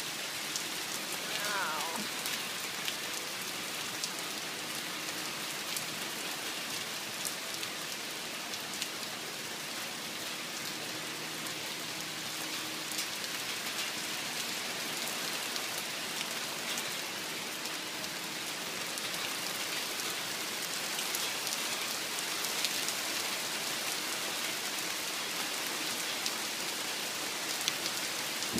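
Heavy rain pouring down onto a lake, a steady hiss with many scattered ticks and splats of nearby drops.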